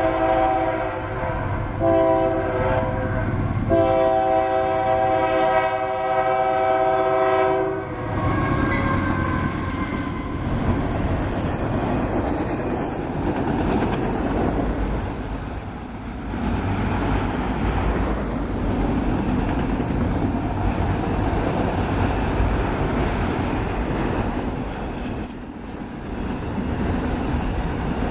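Union Pacific GE AC4460CW locomotive's multi-tone air horn sounding in three blasts, the last one long and ending about eight seconds in with its pitch dropping slightly as the locomotive passes. Then the steady rumble and clickety-clack of autorack cars rolling by.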